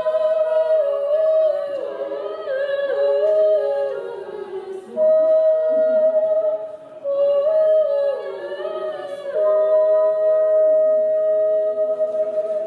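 Unaccompanied singing: a slow melody of long held high notes, two voices moving in harmony, with the phrase sung twice.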